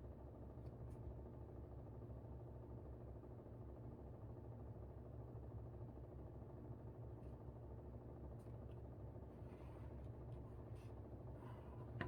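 Air conditioner running with a steady low hum. A few faint light clicks and rustles come over it, more often in the second half.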